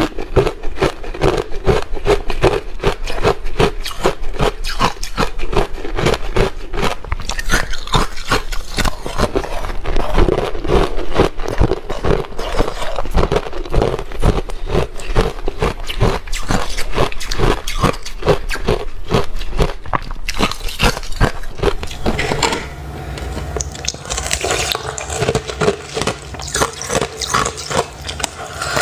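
Ice being bitten and chewed close to the microphone: rapid, dense crunching. In the last quarter the crunches thin out under a steadier hiss.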